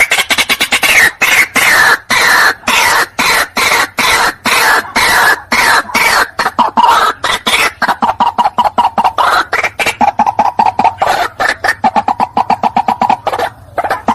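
White-breasted waterhen calls played as a bird lure: a loud, unbroken run of harsh, rapidly repeated notes, several a second, settling into a steadier pulsing call in the second half.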